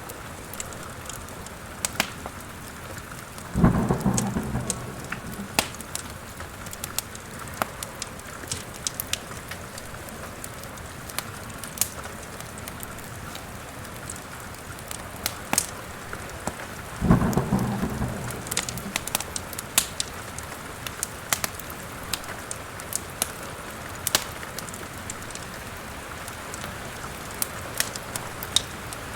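Steady rain with a wood fire crackling in a fireplace, its sharp pops scattered throughout. Thunder breaks in twice, about four seconds in and again about seventeen seconds in, each clap a sudden low rumble that fades over a second or two.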